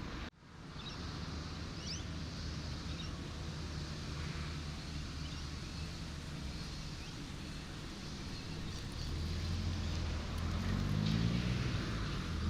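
Road traffic: a steady engine hum over a wash of noise, with a brief dropout just after the start. It grows louder from about nine seconds in, with a rising engine note near the end.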